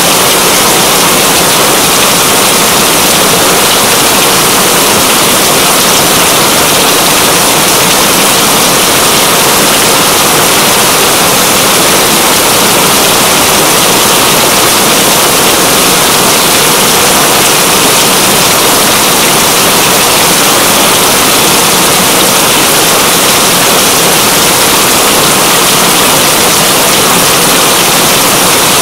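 Heavy rain falling, a loud, steady, unbroken hiss.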